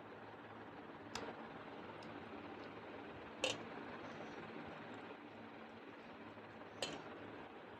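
Faint eating sounds from a meal of rice and mutton curry: three short sharp clicks, about a second in, about three and a half seconds in and near the end, the middle one loudest, over a faint steady hiss.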